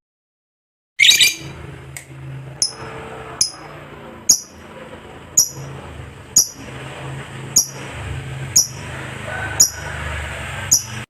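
Lovebird giving one harsh call about a second in, then single short, high chirps about once a second, over a steady low hum.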